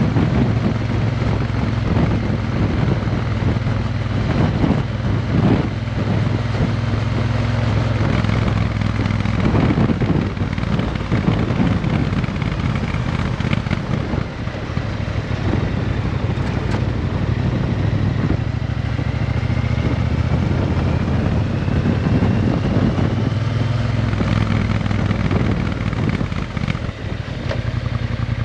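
Triumph Bonneville T120's parallel-twin engine running steadily through a Vance & Hines aftermarket exhaust.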